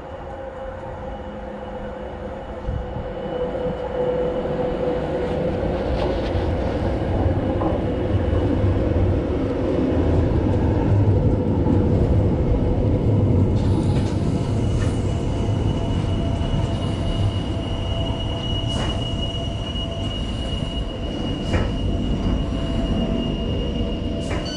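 Tyne & Wear Metro train running on the rails, its low rumble growing louder over the first few seconds as it gets under way, then holding steady. A steady whine runs through it, a thin high squeal-like tone joins about halfway, and a few sharp clicks come from the wheels over rail joints.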